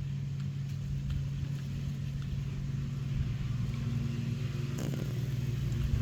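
A steady low engine-like hum, with a brief sharp knock near the end.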